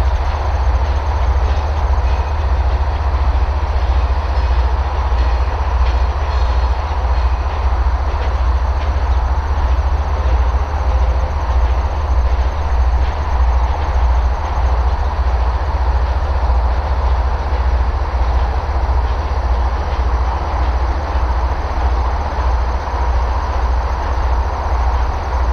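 CN freight train of empty coke cars rolling past at close range, the wheels beating out a steady rhythmic clatter on the rails.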